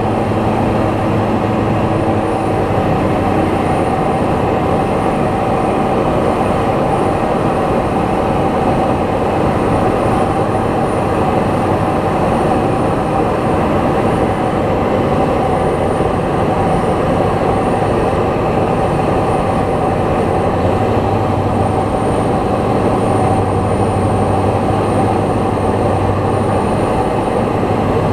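Light aircraft's piston engine and propeller droning steadily in cruise, heard from inside the cockpit, with no change in pitch.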